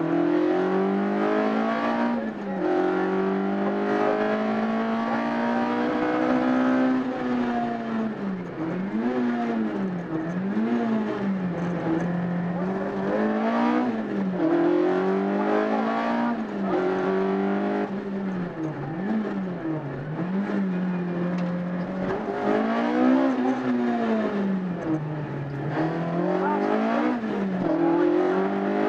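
Peugeot 206 rally car's engine heard from inside the cabin at stage speed. The revs climb and drop again and again as it accelerates, changes gear and slows for bends, over steady road and tyre noise.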